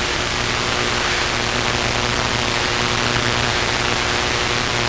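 Light aircraft engine and propeller of a Luscombe droning steadily at reduced power as the plane slows on approach, under a strong steady hiss of cockpit noise.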